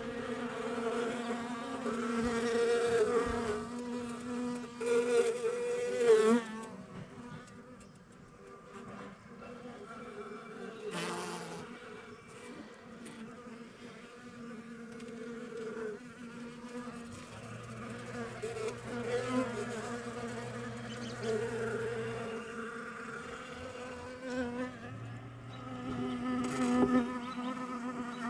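Honeybees buzzing in flight, a steady drone that swells and fades as bees fly close past and away again.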